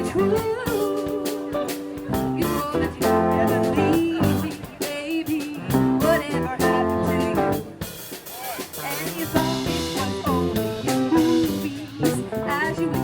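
A band playing a rock song, with guitar over bass and a drum kit.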